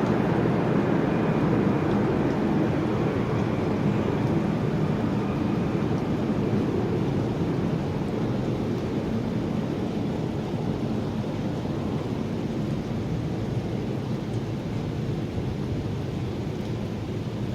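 Long roll of thunder: a deep rumble that comes in sharply and slowly dies away.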